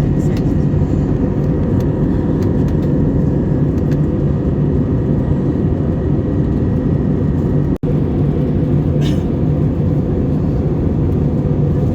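Steady droning rumble inside an airliner cabin, with a low hum, cut by a momentary dropout about eight seconds in.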